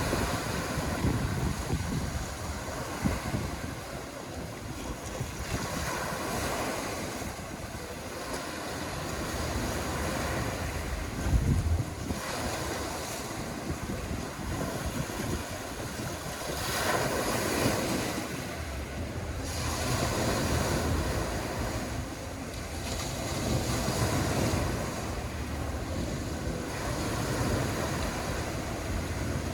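Small sea waves washing in on the shore, swelling and falling back every few seconds, with wind rumbling on the microphone.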